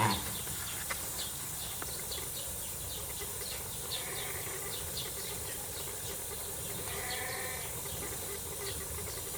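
Sheep pen at a farm: a bleat fading out right at the start, then a steady background hiss with many faint short high ticks, and a faint bleat about seven seconds in.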